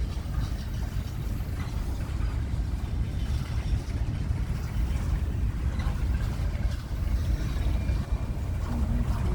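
Steady low rumble of a vehicle rolling along, without a clear rhythm or any sudden events.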